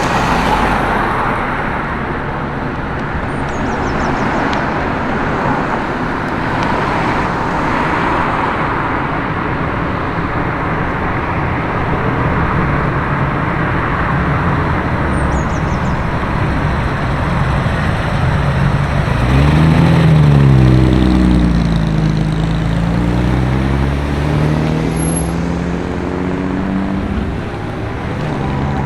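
Road traffic passing, with one car's engine accelerating about two-thirds of the way in: its pitch rises, drops as through a gear change, then rises again.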